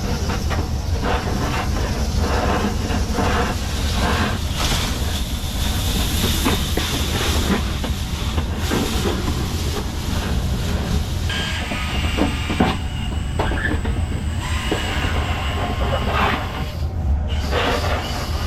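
Dryer-vent cleaning equipment running continuously, with steady machine noise, a low rumble and constant rattling and scraping; the sound changes character about eleven seconds in.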